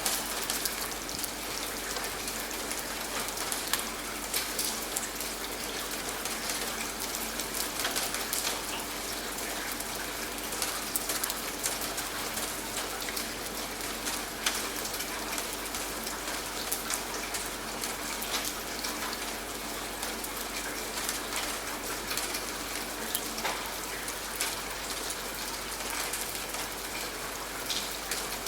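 Steady rain falling, with many close drops ticking on a surface. A few faint steady low tones run beneath.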